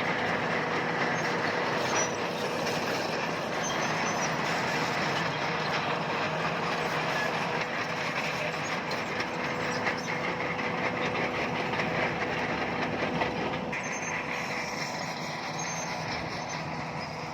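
Crawler bulldozer working, its steel tracks clanking and squealing over a steady diesel engine tone; the clatter changes and eases a little near the end.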